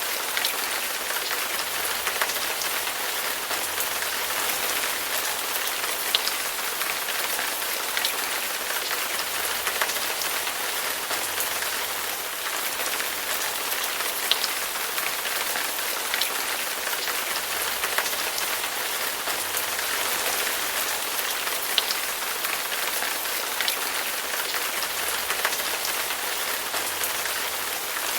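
Heavy rain falling steadily, a dense even hiss with scattered sharper drops striking close by every second or two.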